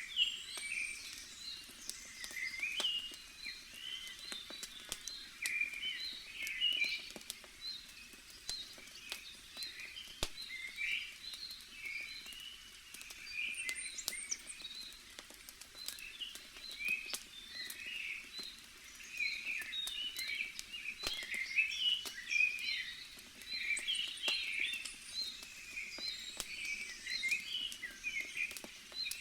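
Many small birds chirping and twittering, with scattered sharp crackles and pops from a burning wood campfire.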